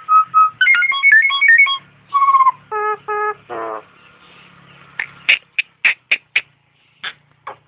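A jalak (Indonesian starling) singing a mimicked song: a run of evenly repeated whistled notes that switch to alternating high and low notes, like the imitation of an ambulance siren the song is titled after. Then come two nasal honking notes, a buzzy falling note, and near the end a string of sharp clicking chips.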